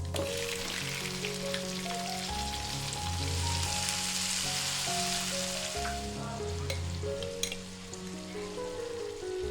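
Oil sizzling as food fries in a pan. The hiss starts suddenly and dies down after about seven seconds, with a couple of sharp utensil clicks near the end.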